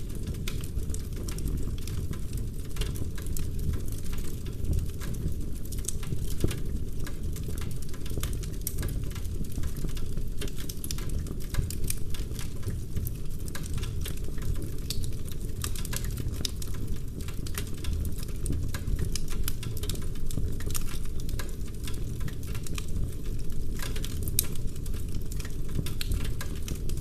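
Wood fire in a fireplace burning steadily, with a low rumble of flame under dense, irregular crackling and sharp pops from the burning logs.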